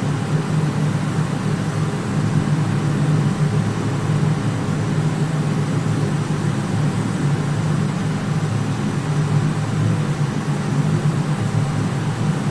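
Steady industrial machinery noise: a constant low rumble with faint high tones above it, unchanging and without any rhythm or impacts.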